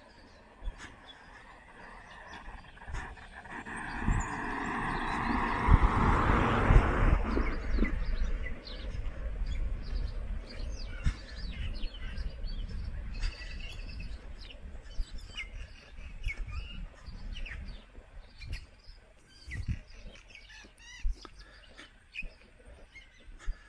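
Small birds chirping and calling around a street. A louder rushing noise swells up and fades away over about four seconds, a few seconds in.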